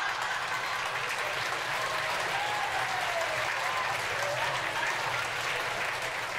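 Audience applause, dense and steady, with a few cheering voices heard through it.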